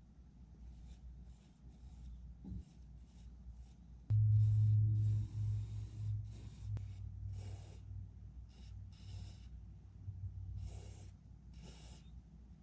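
Short rubbing strokes repeated by hand, about one or two a second. A loud low hum comes in suddenly about four seconds in and fades over the next few seconds.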